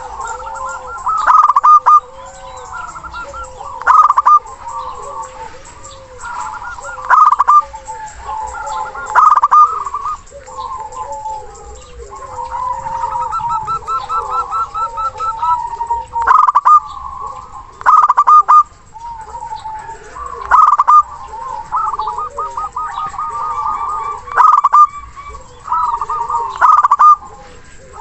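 Zebra doves (local perkutut) cooing over and over in the loud, rapid, rolling song kept as a lure to call rival birds, with loud bursts of calls every few seconds over softer continuous cooing.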